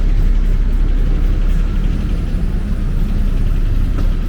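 Road traffic: vehicle engines running in a steady, loud low rumble.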